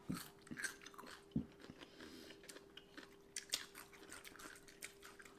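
Pickled ginger slices being chewed up close, with soft, irregular crunches and small mouth clicks.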